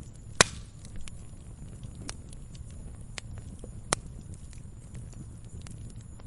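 Wood fire crackling in a fireplace: scattered small crackles over a low rumble of the flames, with two sharp pops, the louder about half a second in and another about four seconds in.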